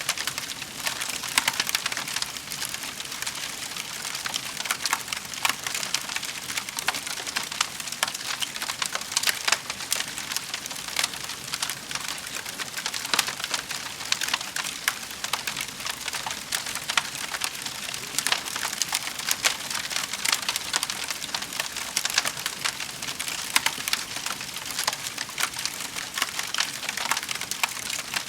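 Wood fire burning in a fireplace, crackling and snapping steadily with many small sharp pops.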